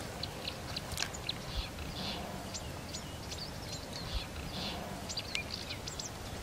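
Wild birds chirping with scattered short, high calls over a faint, steady outdoor background noise.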